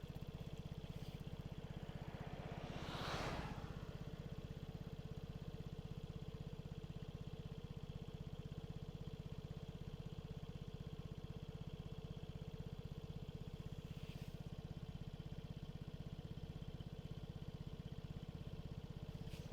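Vespa scooter engine running steadily while riding, with a brief rush of noise that swells and fades about three seconds in.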